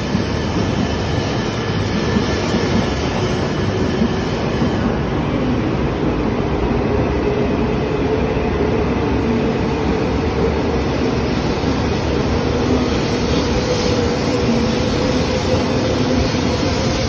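Coupled E3 and E2 series Shinkansen train departing and running past the platform. Its motors give a whine that slowly rises in pitch as it gathers speed, over a steady running rumble.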